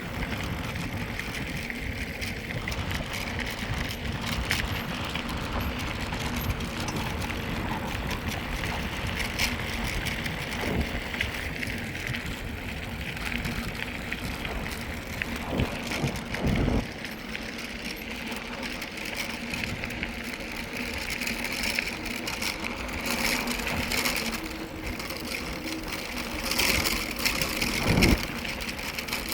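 Mountain bike rolling along a trail: steady tyre noise with wind rumbling on the handheld phone's microphone, and a few knocks from bumps around the middle and near the end.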